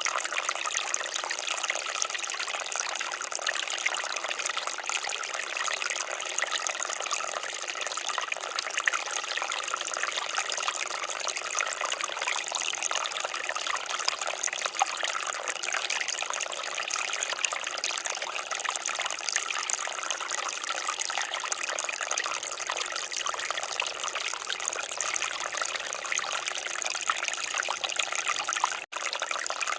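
Water fountain splashing steadily, with a split-second break in the sound near the end.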